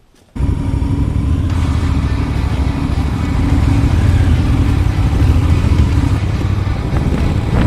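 Motorcycle engine running, loud and steady, cutting in suddenly about half a second in.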